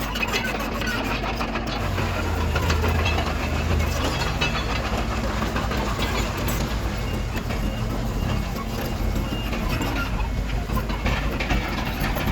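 Diesel engine of heavy earthmoving machinery running steadily with a low drone, over continual rattling and clatter.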